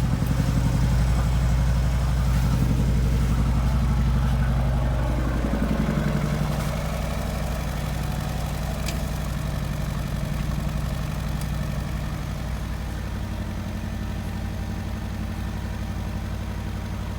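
Porsche Cayenne Turbo's 4.0-litre twin-turbo V8 idling just after a cold start. The fast cold idle steps down about five or six seconds in, then the engine runs steadily and a little quieter.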